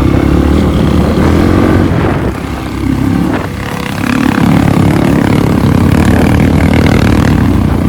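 Trail motorcycle engine running under throttle on an off-road track, easing off for about two seconds partway through and then pulling again.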